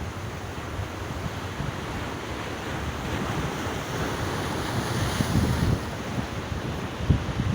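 Big sea waves breaking against breakwater rocks: a continuous wash of surf that swells gradually, with wind gusting on the microphone.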